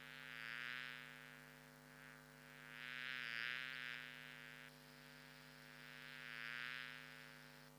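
An insect's buzzing, swelling up and fading away three times, over a steady low electrical hum.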